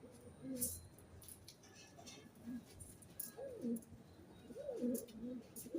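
Pigeons cooing in a repeated series of low, rising-and-falling coos, with a few brief sharp high clicks mixed in.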